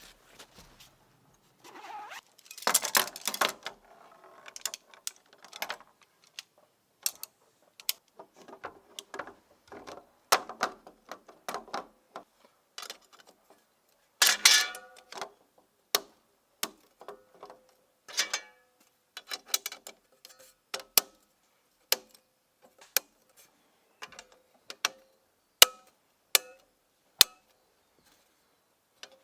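Objects being handled: a string of sharp clicks and knocks with bursts of rustling about three seconds in and again near the middle, some of the later knocks ringing briefly.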